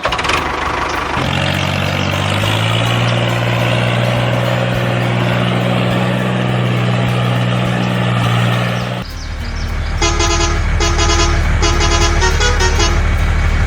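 A truck engine running; it rises about a second and a half in, then holds steady. About nine seconds in it cuts abruptly to a deeper engine rumble, with a quick, repeated electronic beeping over it.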